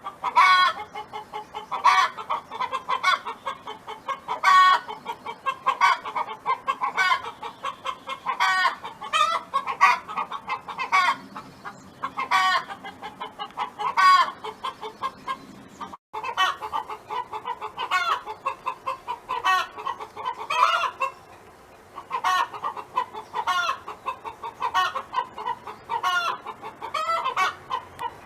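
Domestic hen clucking in quick runs of short notes, broken every second or two by a louder, drawn-out call, the pattern of a hen's 'song'.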